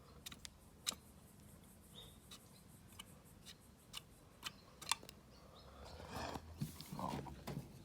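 Pliers working a small drain plug loose on a Mamod model steam traction engine: faint, irregular metallic clicks, with a soft rustle near the end.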